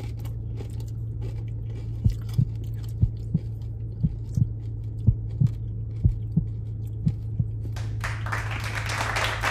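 A person chewing food: soft, low thumps in pairs about once a second over a steady low hum, with a brief rustle near the end.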